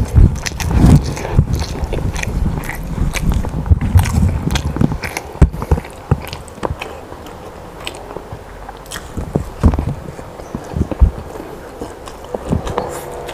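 A person chewing and biting food close to the microphone: wet mouth sounds with irregular sharp clicks, busiest in the first few seconds and again later.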